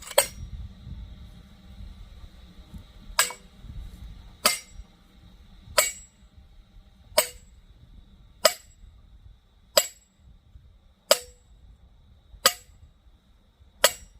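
Steady hammer blows on steel, about ten strikes roughly one every 1.3 seconds, each with a short metallic ring: steel being driven into a tough oak log to split it.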